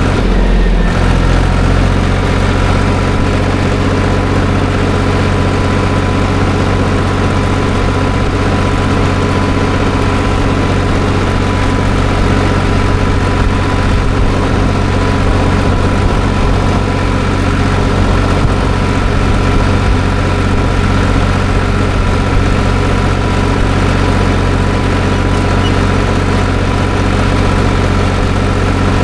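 Tractor engine running at a steady speed, a constant low drone with steady overtones.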